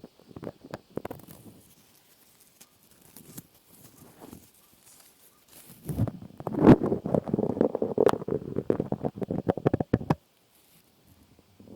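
Close-miked ASMR trigger sounds: quick crackling, scratching and tapping, sparse at first, then a dense burst of crackles from about six to ten seconds in that stops abruptly.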